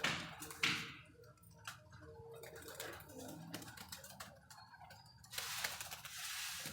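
Pigeon grain being scattered. A couple of swishing throws come at the start, then light scattered ticking and tapping of grain and pecking, and a short rush of noise near the end.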